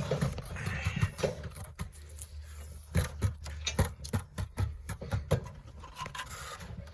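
Plastering trowels working wet synthetic basecoat over fiberglass mesh: irregular clicks and knocks, densest in the middle, over a steady low hum.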